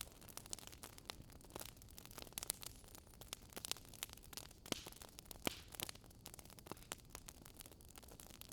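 Fire crackling softly: irregular small pops and snaps over a faint steady hiss, with a few louder pops.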